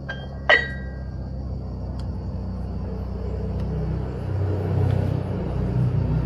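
A sharp metallic clank of dumbbell weights striking, ringing briefly, about half a second in. Then a low vehicle engine rumble that grows louder.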